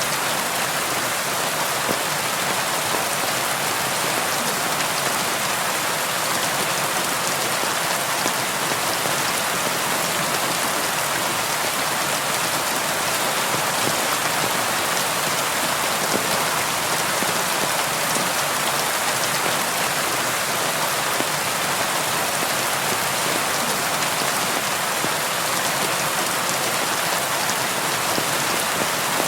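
Steady rain falling on window glass: an even hiss with the small, sharp taps of individual drops, unchanging in strength.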